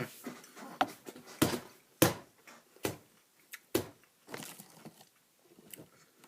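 Irregular sharp crackles and crunches of crispy wasabi-flavoured seaweed snack sheets being chewed, a loud crunch every half second to a second.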